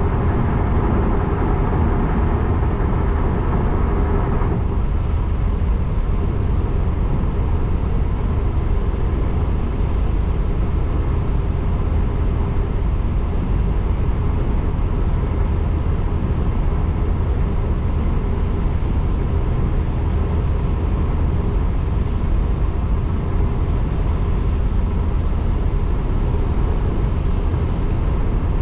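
Steady road noise of a car driving, with a deep rumble and tyre hiss on a damp road. A brighter part of the hiss drops away about four and a half seconds in.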